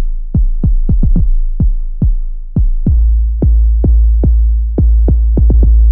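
An 808 bass pattern played from a sampler: a rhythm of sharp hits, each dropping quickly in pitch into a deep, sustained bass tone. About three seconds in the bass notes become longer and fuller.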